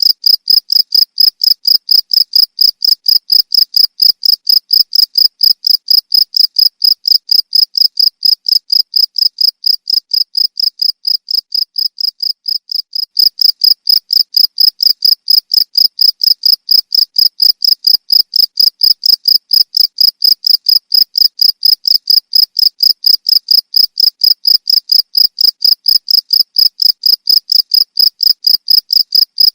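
Cricket chirping in a fast, even rhythm of high-pitched pulses, about three a second. It grows softer for a few seconds around the middle, then suddenly returns to full strength.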